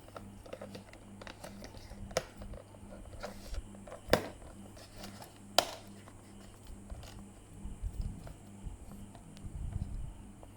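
Quiet room with scattered light clicks and taps, two sharper clicks about four and five and a half seconds in, over a faint steady hum.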